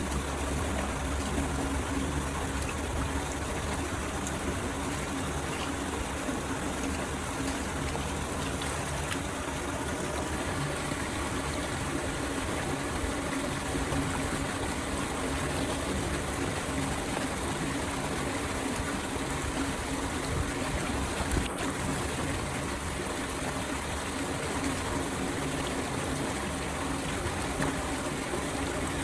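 Floodwater pouring steadily into a storm drain, a continuous rush and gurgle of flowing water.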